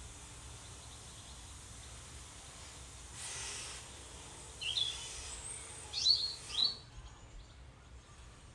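Outdoor ambience with a steady low background rumble, and a few short, high bird chirps about halfway through.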